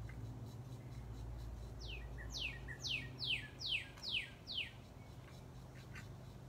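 A bird calling: a run of about seven quick chirps, each sliding down in pitch, starting about two seconds in, over a low steady hum.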